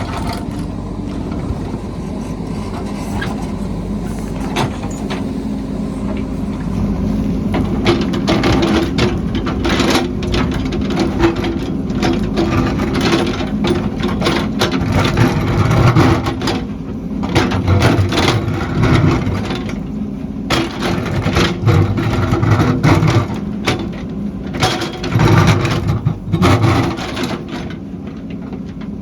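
Heavy construction machine's engine running steadily, with many sharp knocks and clanks of metal work and repeated swells in the low rumble.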